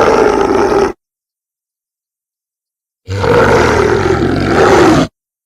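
Edited big-cat roar sound effect, made to sound like a black panther, heard twice: one call cuts off about a second in, and a second, two-second roar starts about three seconds in, its pitch sinking slightly. Dead silence between and after the calls.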